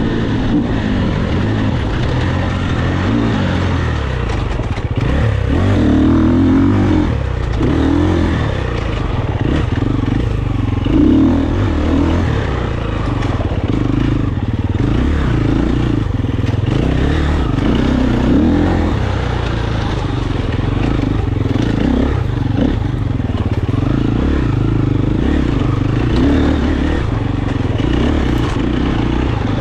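KTM 350 single-cylinder four-stroke enduro motorcycle engine being ridden, its pitch rising and falling over and over as the throttle is opened and closed, with scattered clattering knocks.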